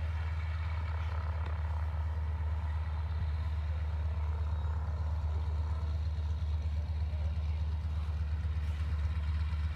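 Propeller plane's engine running steadily at low power, a low even drone, as the plane rolls on the ground after landing.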